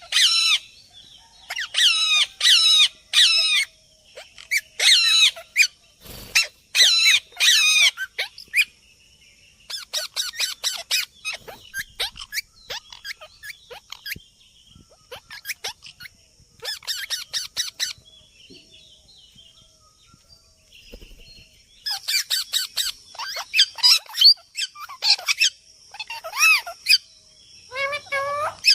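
Parrots calling in bursts of rapid, repeated chirping notes with short pauses between; the calling thins out through the middle and picks up again near the end.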